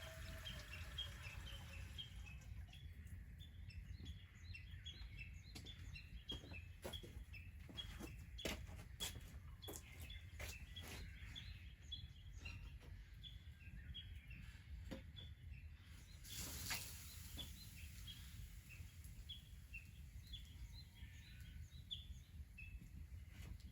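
Small birds chirping, with short notes repeated about once or twice a second, over a faint low rumble. Scattered sharp clicks or snaps come in between, thickest about a quarter to halfway through, and a brief rush of noise sounds about two-thirds of the way in.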